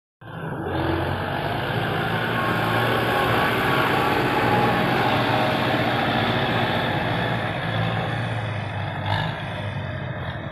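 Dump truck's diesel engine running steadily, with a short knock about nine seconds in.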